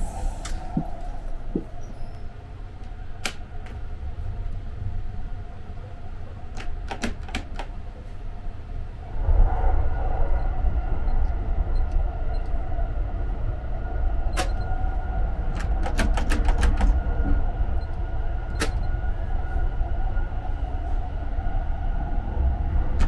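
Steady low rumble of the Sunrise Express sleeper train running, heard inside its compartment, growing louder about nine seconds in. Over it come scattered sharp clicks, including a quick run of them as the door's keypad lock buttons are pressed.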